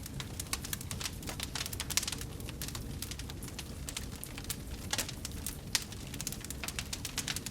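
Wood fire burning in a fireplace, crackling and popping irregularly over a low, steady rumble of flame, with a sharper pop about two seconds in and another near six seconds.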